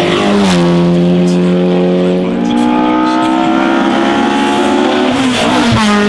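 A classic racing car's engine pulling hard under full throttle. The pitch climbs steadily through a gear and drops sharply at an upshift about half a second in and again near the end.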